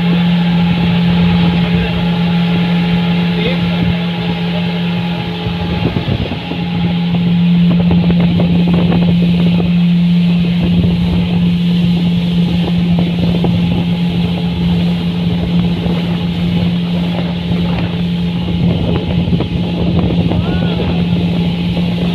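An engine running steadily with a constant hum, dipping briefly about six seconds in.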